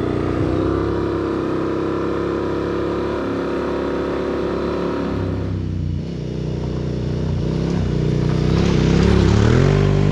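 2017 Yamaha Super Tenere's 1,200 cc parallel-twin engine running under way. Its note is steady, then drops off about six seconds in. Near the end it climbs in pitch again, with a rising rush of noise.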